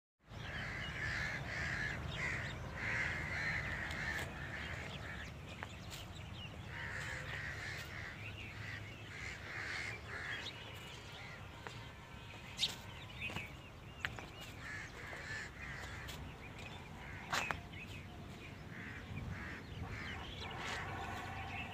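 Birds calling again and again, with a low steady background rumble and a couple of sharp clicks in the second half.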